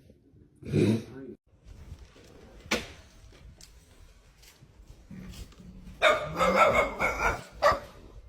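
A dog barking: once about a second in, then a longer run of barking near the end.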